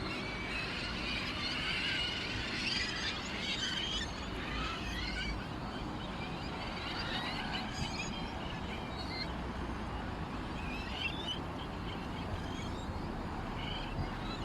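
Many small songbirds chirping and twittering, a dense chorus in the first few seconds that thins to scattered chirps, over a steady low background noise.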